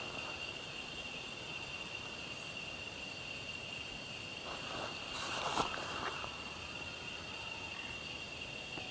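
Steady high-pitched chorus of night insects, with a brief rustle about five seconds in.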